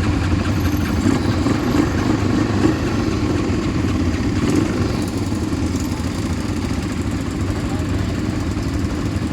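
ATV engine running steadily, a low even hum.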